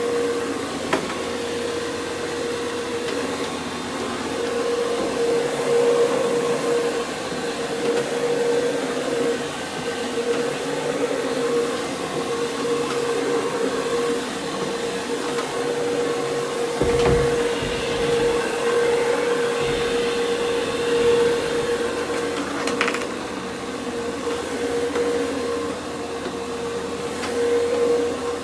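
Carpet-cleaning machinery running steadily: a constant hum under a rushing hiss, from professional carpet-cleaning equipment at work on the carpet.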